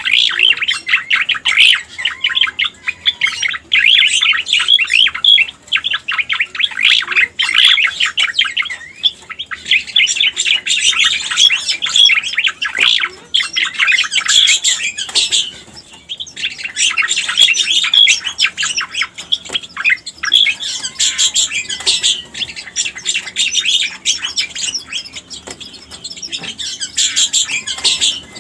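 Cica koreng (cucak koreng) bird song used as a lure recording: long phrases of fast, dense chattering notes, each several seconds long, separated by brief pauses.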